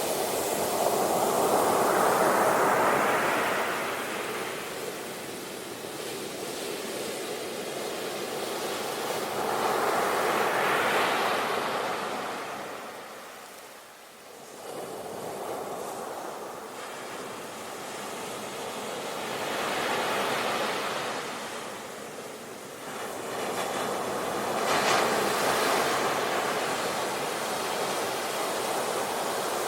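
Sea waves breaking and washing onto the shore. The surf swells and fades in four surges, with a brief lull about halfway through.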